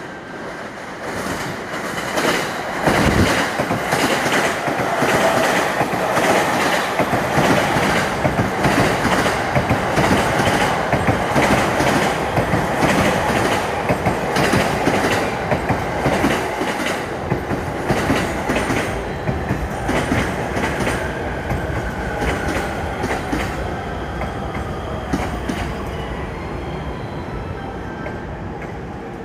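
Electric commuter train on the Tokaido Line entering a station at speed, its wheels clattering over rail joints and points. Near the end the clatter eases and a whine falls in pitch as the train slows.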